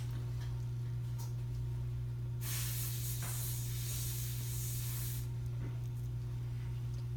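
Dental air-water syringe blowing a jet of air for about three seconds, an even hiss starting about two and a half seconds in and cutting off near the five-second mark, over a steady low hum.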